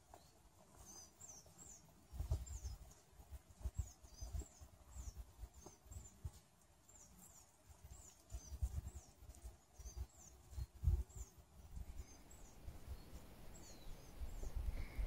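Small forest birds calling with short, high chirps, repeated again and again. Under them are irregular low rumbles, which are the loudest sound here.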